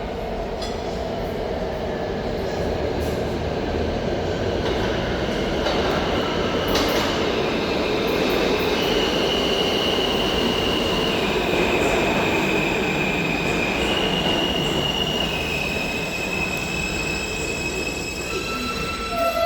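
New York City Subway train running through the station with a steady rumble, its wheels squealing high on the rails from about nine seconds in, the squeal shifting in pitch several times.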